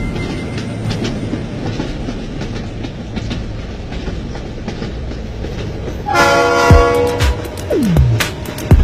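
Train running, a steady rumble and clatter of the wheels on the track, with the train's horn sounding for about a second, about six seconds in. Near the end come sharp thumps with low falling swoops.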